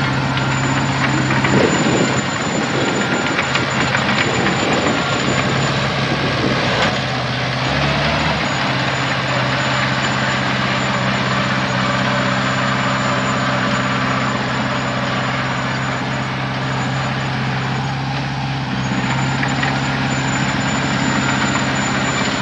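Heavy diesel engine running steadily, with a busier, rougher stretch from about two to seven seconds in.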